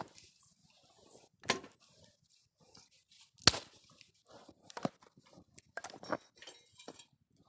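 Wood snapping and cracking at a campfire: a handful of sharp cracks, the loudest about three and a half seconds in, with soft rustling between them.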